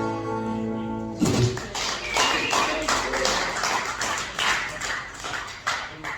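A final strummed acoustic guitar chord rings and is stopped about a second in, then the audience applauds until near the end.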